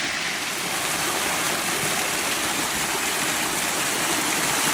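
Steady, even rush of running water, like a stream or small waterfall.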